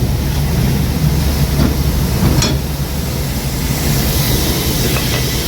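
Diesel semi truck engine running steadily with a low, even hum, heard over the noise of a grain hopper trailer being unloaded.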